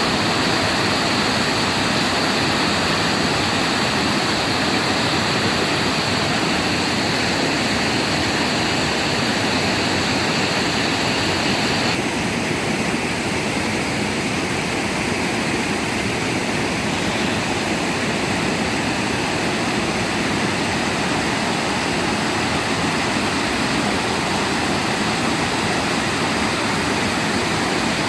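Waterfall: a steady, loud rush of falling water, its tone shifting slightly about twelve seconds in.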